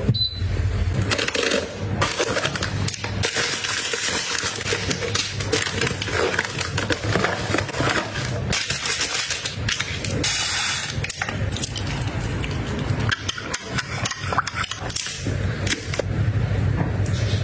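Kitchen handling sounds from sandwich making: many small clicks and clinks, with rustling and scraping in between.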